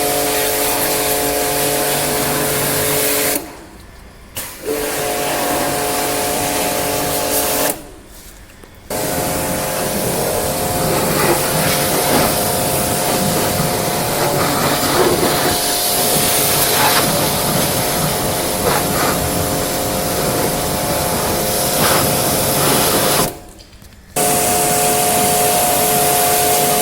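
Pressure washer running and spraying water, a loud steady hiss over a steady motor hum. The spray and hum stop briefly three times, each for about a second, then start again.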